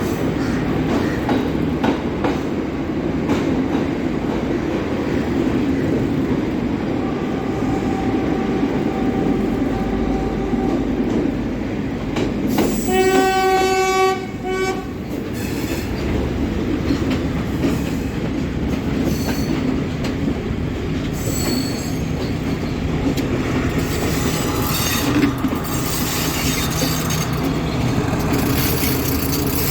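Diesel express train running at speed, with steady rolling and rail noise. About a third of the way through, a train horn sounds one loud blast of about two seconds. Later there are a few short, high wheel squeals.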